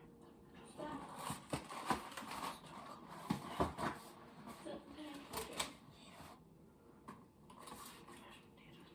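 Bottles and jars knocking and clinking as they are moved around on refrigerator shelves: a run of irregular clicks and knocks that thins out about six seconds in.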